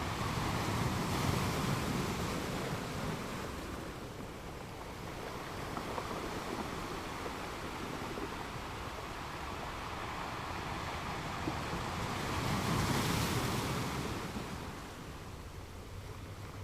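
Ocean surf: waves washing in and breaking as a steady rushing hiss, swelling near the start and again about thirteen seconds in.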